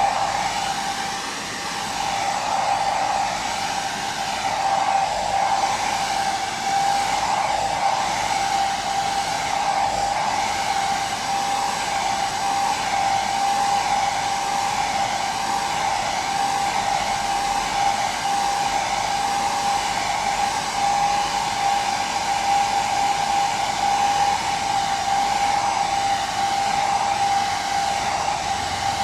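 Electric hair dryer running steadily: a continuous rush of blown air with a steady motor whine.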